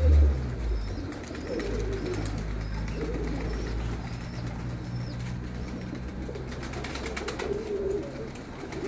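Domestic pigeons cooing now and then, over a steady low hum. A small bird chirps a few times in the middle.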